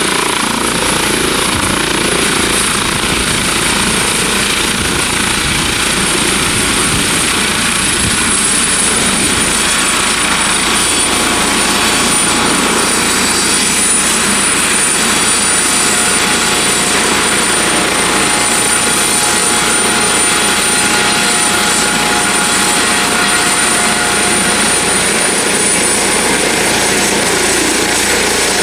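Twin-turbine helicopter running close by: steady rotor and engine noise under a high turbine whine that dips slightly in pitch about eight seconds in.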